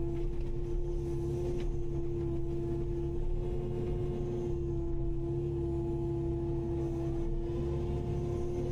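Kubota KX080-5 excavator running steadily, a constant whine over a low engine rumble, with no clear impacts.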